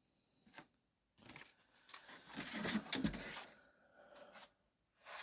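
Rustling, scraping and clicking as small items and packaging are handled on a table, with a soft thump about three seconds in.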